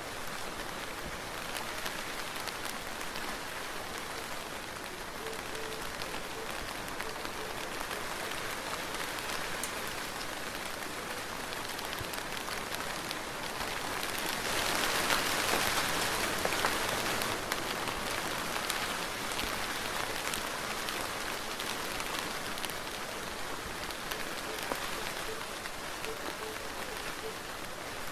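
Soft, steady rain falling, with fine patter of individual drops; it swells louder for a few seconds about halfway through, then settles back.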